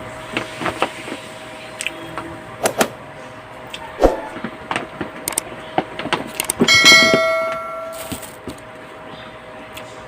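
Tableware clicking and tapping during eating, with one loud ringing clink about two-thirds of the way through that dies away over about a second, like a utensil striking a plate or glass.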